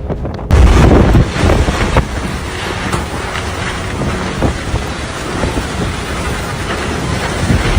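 Storm-force wind gusting hard against the microphone, a loud rushing roar that comes in suddenly about half a second in and keeps surging.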